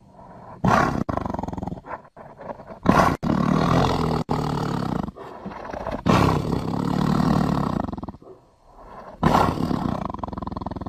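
Tiger roaring, four loud roars in a row, some cut off abruptly.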